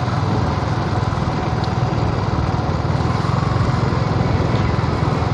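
Motorcycle engine running steadily while under way, with a constant rush of wind and road noise.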